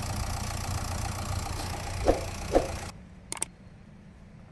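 Nissan Terrano engine idling steadily after a carbon-flush additive treatment, which the people present say has made it run quieter. Two short knocks come a little after two seconds in, and the engine sound cuts off suddenly at about three seconds, followed by a couple of faint clicks.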